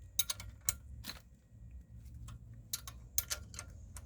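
Irregular sharp metallic clicks and clinks in small clusters, from a 5/8 spanner working a bolt loose on a floor jack.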